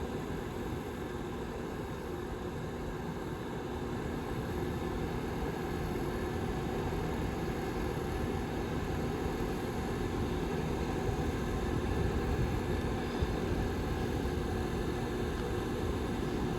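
Back fan of a Lasko 755320 tower heater running steadily: an even rush of air with a faint low hum.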